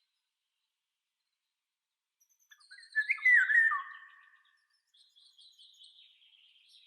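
Songbirds calling: after a silent start, one bird gives a loud short phrase of sliding, warbling notes about three seconds in, followed by fainter high-pitched twittering near the end.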